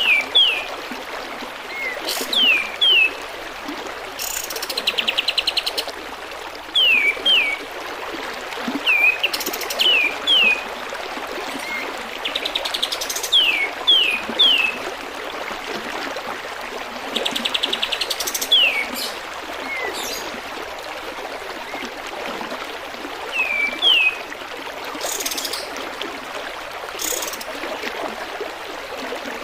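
Kapas tembak bird singing: repeated short falling whistles, mostly in twos and threes, broken by a few fast rattling trills and sharp high notes. Under it runs a steady trickle of flowing water.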